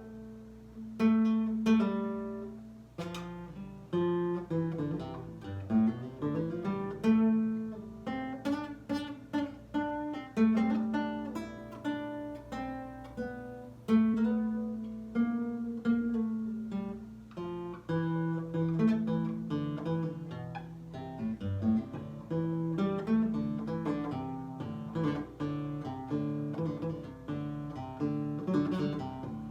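Nylon-string acoustic guitar, a Japanese-made Lyle, played fingerstyle: a run of plucked single notes and chords, each ringing and fading, with a few notes sliding in pitch about six seconds in.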